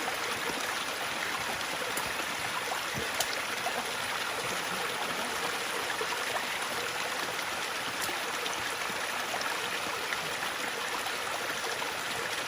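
Flowing water rushing steadily, an even hiss with a few faint clicks.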